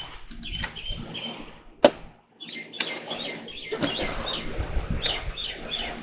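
Small birds chirping in short, repeated calls, with a few sharp clicks, the loudest about two seconds in.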